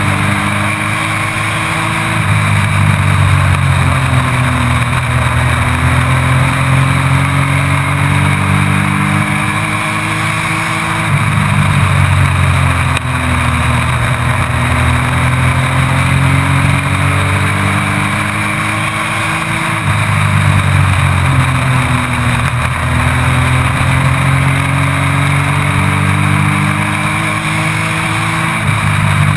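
A race truck's engine heard from onboard, cycling round a short oval. The pitch climbs steadily under power, then drops sharply as the throttle is lifted for a corner, and climbs again, about every nine seconds, over a steady rush of noise.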